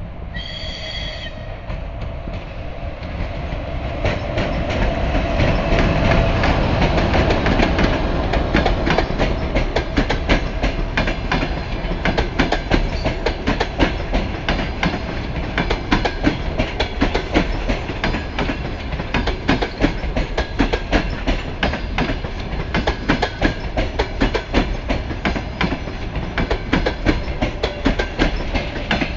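Passenger train hauled by a ChS4 electric locomotive pulling out of a station. A brief high tone comes near the start, then a rumble that grows over the first several seconds and turns into a continuous clickety-clack of wheels over rail joints.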